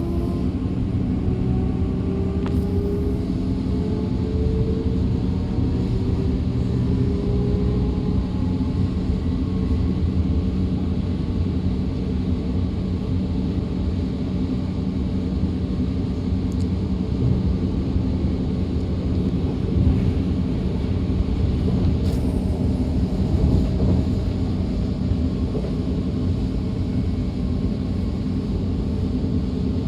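DB Class 425 electric multiple unit heard on board while running along the line. There is a steady rolling rumble, and in the first several seconds a rising whine from the traction drive, the sound that gives the class its nickname 'Quietschie', which fades out as the train gathers speed.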